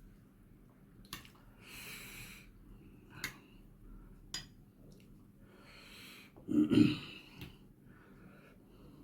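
Close-up eating sounds: a few sharp clinks of a utensil on a plate, soft breathing and chewing noises, and a louder breathy mouth sound about two-thirds of the way in.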